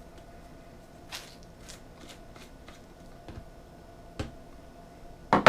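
Plastic blender cup and parts being handled: scattered light clicks and rustles, with a sharper knock near the end, over a faint steady hum.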